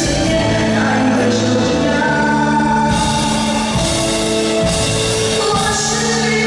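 Singing over a live band playing a Mandarin pop song, the voice holding long notes over the band's accompaniment.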